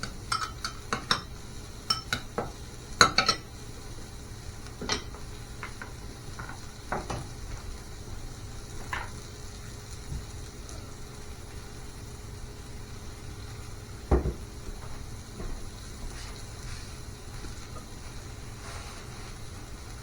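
Kitchen utensils clinking and knocking against pots and dishes: a quick run of clinks in the first few seconds, then scattered ones, with a heavier knock about 14 seconds in.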